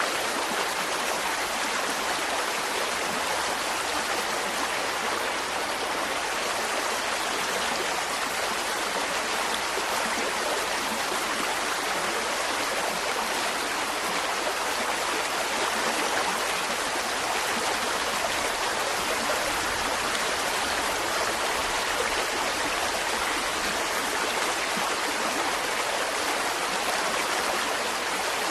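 Mountain stream flowing: a steady, even rush and babble of water over rocks.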